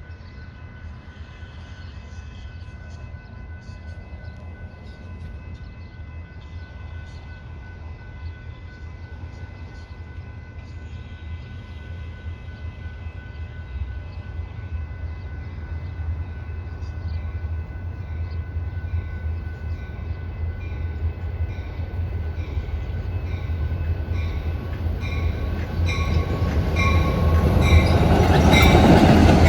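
A train approaching on the tracks, its low rumble growing steadily louder, with steady high ringing tones from the rails and wheels. Near the end it draws close and the wheels click over rail joints about twice a second.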